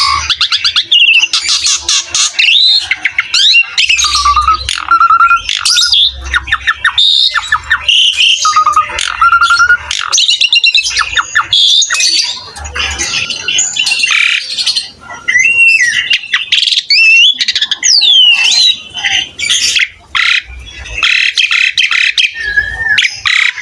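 Asian pied starling (jalak suren) singing vigorously, a long unbroken run of harsh chattering notes mixed with clear whistles and rising and falling slurred whistles.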